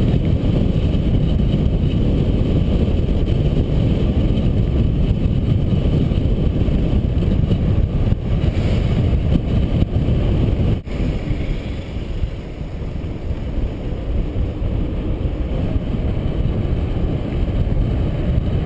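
Wind buffeting the microphone of a camera carried on a mountain bike at speed downhill: a steady, loud low rumble, dipping briefly about eleven seconds in.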